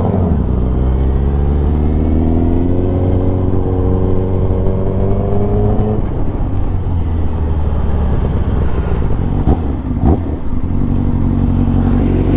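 Honda CBR1000RR-R Fireblade SP inline-four with an SC Project exhaust, heard on board while riding. The engine note rises steadily under acceleration for about six seconds, then drops off as the throttle closes. Two short sharp cracks come a little after halfway, before it settles to a steady note at lower revs.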